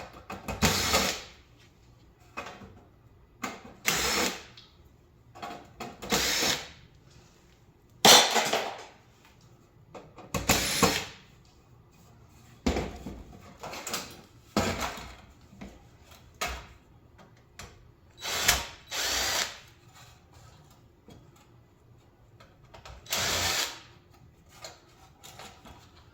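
Power drill running in about a dozen short bursts with pauses between, backing out Phillips screws from a coffee warmer during teardown.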